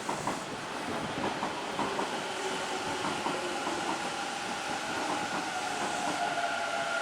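A Hanshin Railway electric train running, its wheels clicking over rail joints, with a steady whine that grows stronger toward the end.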